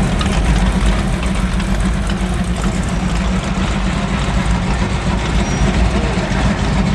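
Car engines running in street traffic: a steady low rumble with a dense hiss of noise over it.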